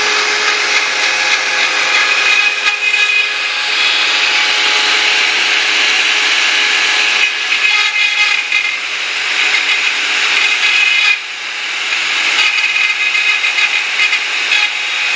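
Homemade CNC router spindle milling Thai lettering: a steady whine over a rasping cutting noise, dipping briefly about eleven seconds in.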